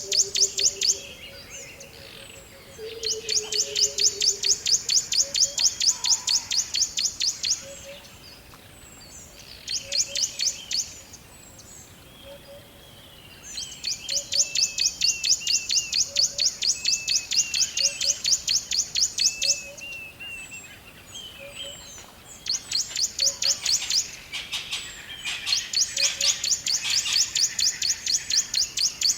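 Forest wildlife calls: a loud, high, rapidly pulsing trill comes in runs of one to six seconds with short gaps, over softer chirps. A low falling whistle sounds near the start, and faint low notes repeat about once a second.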